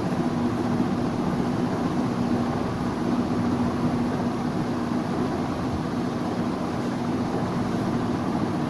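Steady mechanical hum with a rushing noise behind it, unchanging throughout, like a running machine; no bird calls stand out.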